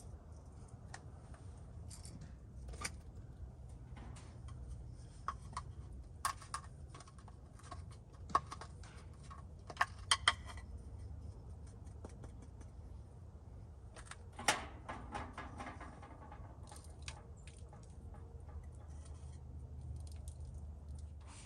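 Scattered light clicks and taps with a brief rustle, from hands handling seasoning containers and cooking gear, over a steady low rumble. The sharpest clicks come about eight to ten seconds in, and the rustle about halfway through.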